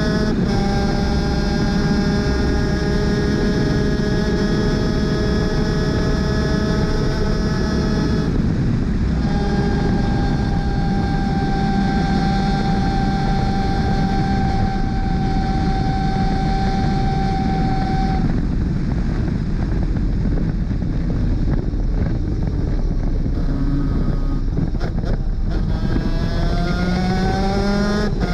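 250cc two-stroke superkart engine running hard at high speed, a steady high-pitched tone with a brief break about eight seconds in. From about eighteen seconds the steady tone breaks up as the kart slows, and the pitch climbs again near the end as it accelerates.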